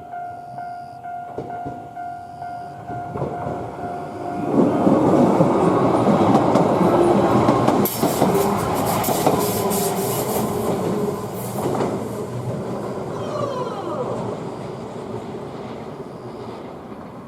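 Shizuoka Railway electric train passing on a curve: its rumble builds about four seconds in, the wheels clack over rail joints, and it then fades slowly.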